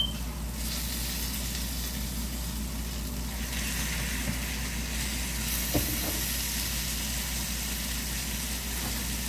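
Food sizzling in hot oil: chicken wings frying in a pan. The hiss swells about half a second in and again at around three and a half seconds, with a light clink near the middle.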